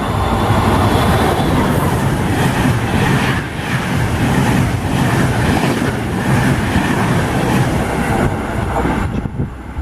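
Train passing close by through a station: a loud, steady rush of wheel and rail noise that falls away near the end.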